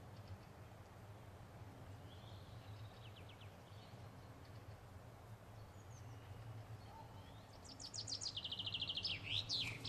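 Small songbird singing: faint calls at first, then a fast, loud trill of high notes near the end that finishes in a quick downward sweep, over a low, steady outdoor rumble.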